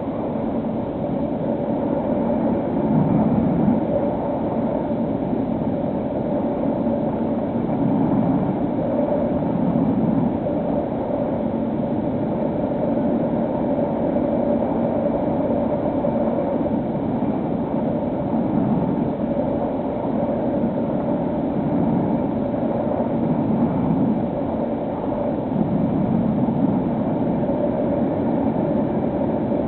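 Electric motor and propeller of a HobbyKing SkyEye FPV foam plane running steadily, a constant hum with a rough, noisy rush under it.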